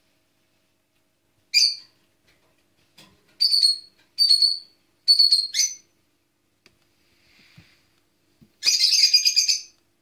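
A bird chirping: about five short, high chirps spaced a second or less apart, then a rapid string of chirps lasting about a second near the end.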